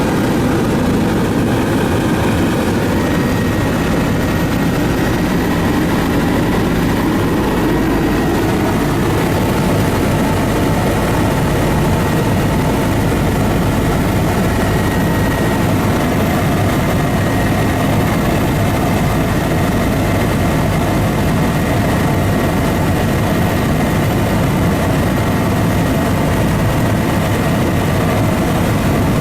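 Aircraft engine and propeller or rotor noise heard on board during flight: a loud, steady drone with no change in pitch or level.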